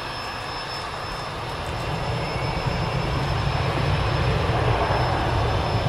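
Airplane engine noise, a steady rumble that grows louder from about two seconds in.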